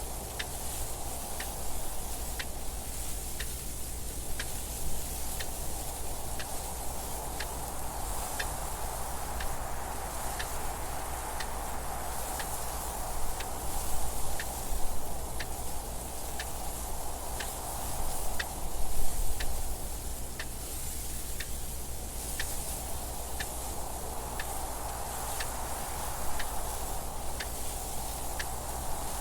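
Clock ticking steadily and evenly, a little under a second between ticks, over a wind noise that rises and falls in slow gusts, loudest around the middle.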